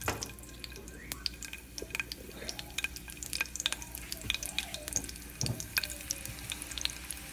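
Onion pieces frying in hot oil in a frying pan: a light sizzle with many scattered small pops and crackles.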